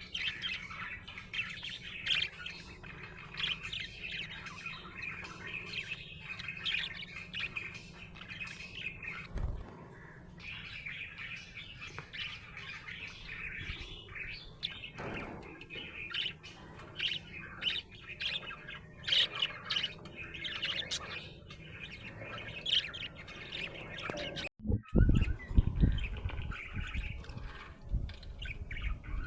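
Budgerigar chirping and warbling in a busy, continuous stream of short high chirps, with a few low thumps near the end.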